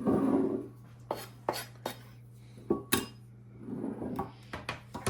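Kitchen utensils and cookware clattering: a scrape at the start, then a run of separate clinks and knocks, one of them ringing briefly, with another short scrape about four seconds in.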